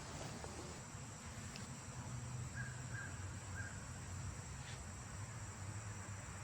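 Summer insects, such as crickets, keep up a steady high-pitched drone over a low rumble. Three short bird calls, a few tenths of a second apart, come near the middle.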